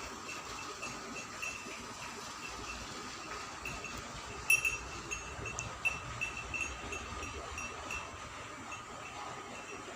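Small livestock neck bells clinking lightly and irregularly, with one sharper clink about four and a half seconds in. A faint steady high hum runs underneath.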